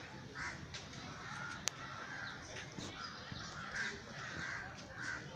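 Faint, repeated short bird calls in the background, with one sharp click about a second and a half in.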